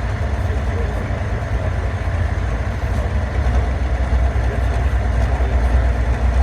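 Turbocharged 510-cubic-inch pulling tractor engine running with a low, steady rumble. It grows a little louder near the end.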